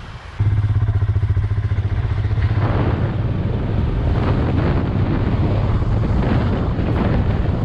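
Royal Enfield Himalayan motorcycle's single-cylinder engine running steadily, coming in suddenly about half a second in. Wind and road noise build from about two and a half seconds in as the bike rides on.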